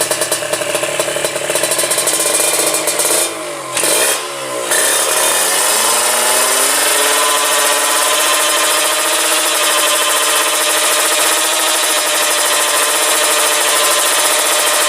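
High-compression Yamaha Jupiter drag-bike engine, a single-cylinder four-stroke, revving hard. About three seconds in the throttle is chopped twice and the revs dip. They then climb back and hold steady and high.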